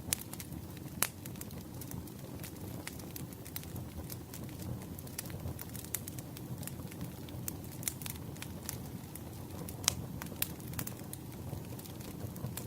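Campfire crackling: a steady low rush of burning wood with many irregular sharp pops and snaps, the loudest about a second in and near ten seconds in.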